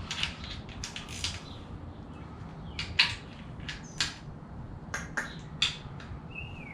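Hand tools and metal engine parts being handled, giving sharp, irregular clicks and clinks over a low steady hum, the loudest about three and four seconds in, with a brief squeak near the end.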